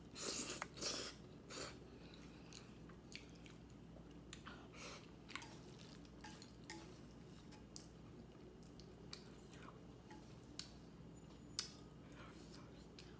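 Eating sounds of a person eating red bean paste kalguksu: a burst of wet slurping and chewing at the start, then scattered faint chewing clicks over a low steady hum.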